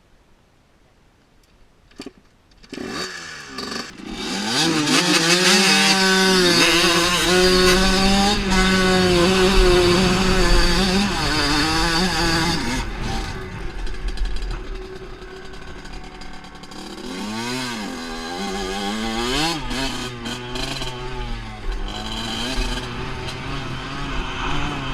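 Dirt bike engine catching about three seconds in, then revving hard and held at high, steady revs for several seconds. About halfway through it drops back, and its pitch rises and falls with the throttle.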